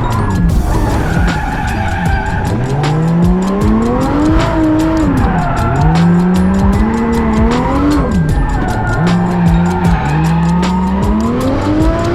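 Turbocharged 1JZ straight-six of a Toyota Chaser JZX100 drift car, revving up and dropping back about three times as it drifts, with tyre squeal from the sliding rear tyres.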